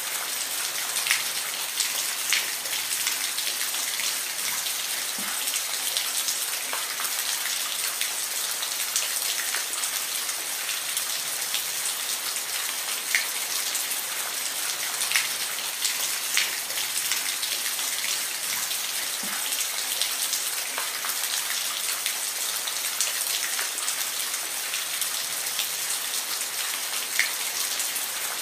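Steady rain falling on a surface, an even hiss with scattered louder individual drops ticking through it.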